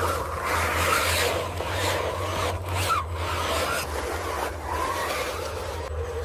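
A radio-controlled cement mixer truck running over rough ground: a faint motor whine rising and falling in pitch over continuous gritty scraping and rubbing.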